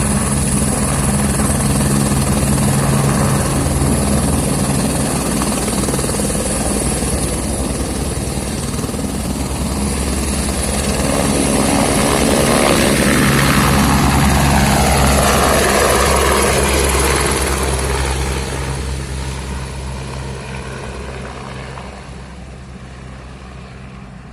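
Helicopter rotor and turbine running as it departs. It swells to its loudest about halfway through, with a sweeping fall in pitch, then fades steadily away toward the end.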